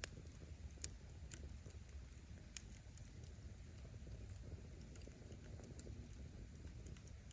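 Wood fire burning: a faint, steady low rumble of flame with scattered sharp crackles and pops from the firewood, several in a few seconds.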